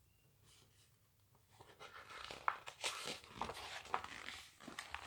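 Paper rustling and crinkling as a picture-book page is turned, a string of soft rustles and small clicks starting about a second and a half in.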